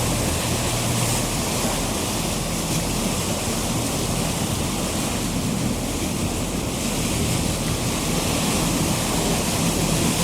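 Steady rush of wind and water aboard a moving tour boat, over the low, even hum of its engine.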